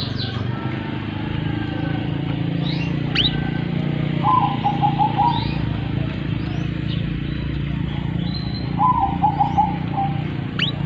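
Birds calling: scattered short rising chirps, and twice a short run of about five quick cooing notes, over a steady low hum.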